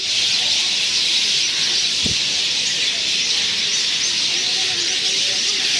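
A dense chorus of many birds chirping at once, a steady high twittering din with no single call standing out. A brief low thump comes about two seconds in.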